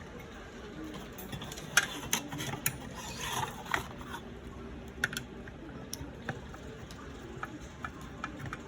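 Irregular small clicks and rattles of hard parts and tools being handled, the loudest about two seconds in.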